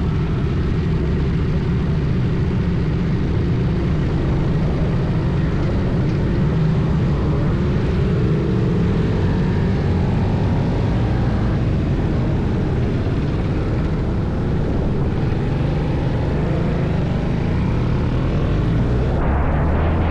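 Motorcycle engine running steadily at road speed, with wind rushing over the microphone. The engine pitch slides up and down a little, and near the end there is a short rise.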